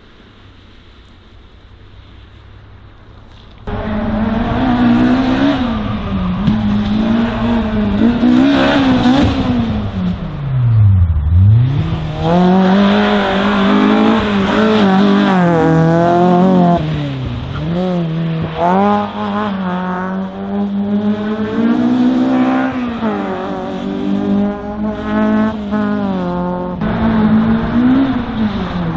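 Race car engine at full throttle through a slalom course, its pitch repeatedly climbing and dropping as it accelerates, brakes and shifts; one deep drop to a low rev near the middle. It starts suddenly a few seconds in.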